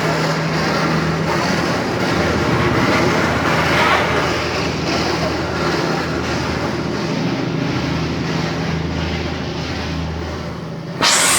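A vehicle's engine running steadily, with a low hum under constant travel noise. Near the end a loud hissing rush starts suddenly.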